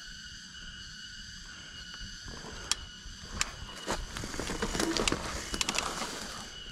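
Mountain bike rattling and clicking over rough trail, louder and busier from about four seconds in, over a steady high-pitched insect drone.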